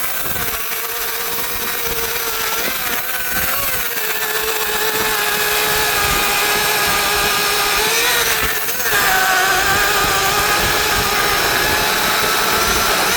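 Small chainsaw with a 16-inch bar running at full throttle through thick wood. Its pitch sags for a moment as the chain bites and then recovers, and it gets louder about nine seconds in.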